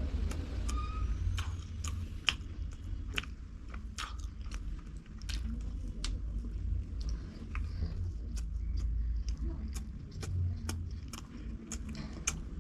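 Close-miked eating: a person biting and chewing food, with many irregular crisp mouth clicks and crunches, over a steady low hum.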